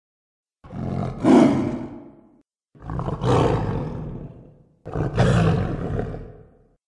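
Three deep roaring bellows made as Scutosaurus sound effects, each about two seconds long, swelling quickly and then fading out, with short silences between them.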